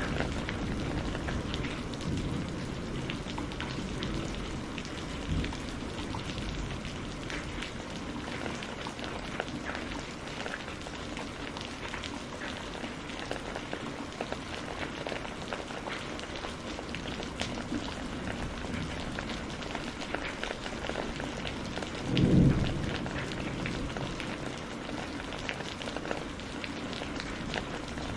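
Steady rain falling, with scattered ticks of individual drops. Faint low thunder rumbles sound early on, and a short, louder low boom of thunder comes about three-quarters of the way through.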